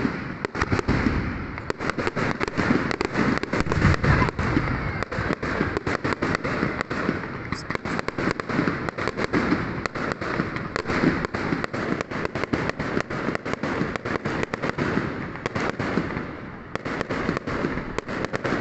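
Many fireworks going off at once: a dense, continuous run of bangs and crackling pops, easing briefly near the end before picking up again.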